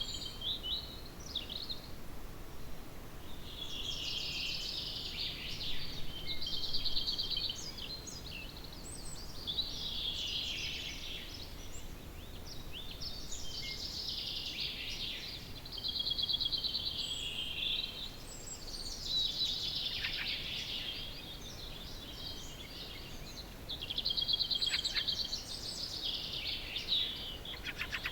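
Songbirds singing: short phrases of rapid trills and chirps, repeated every four to five seconds, over a faint steady background hiss.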